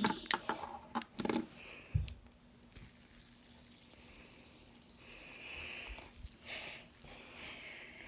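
A quick run of sharp clicks and knocks as two fidget spinners are handled and flicked into spin, ending with a soft thud about two seconds in. A faint steady hiss follows, with soft swells.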